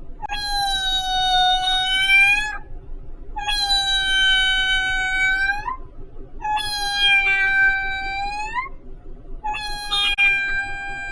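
A woman imitating a cat with long, drawn-out meows: four steady calls of about two and a half seconds each with short gaps between, the last starting near the end.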